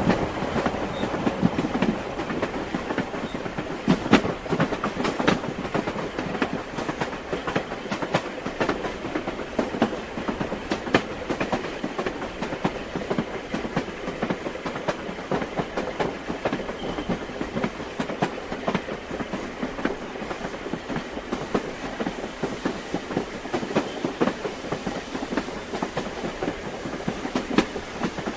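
Train wheels clacking over rail joints above the steady rumble of a moving railway carriage, with sharp clicks at uneven intervals.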